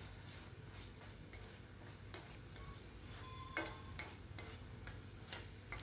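Diced pineapple frying faintly in ghee and oil in a pan while a spoon stirs it, with scattered clicks and scrapes of the spoon against the pan.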